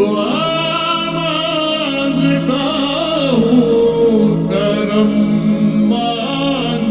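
Devotional singing: a voice holding and bending long melismatic notes without words, over a steady low drone.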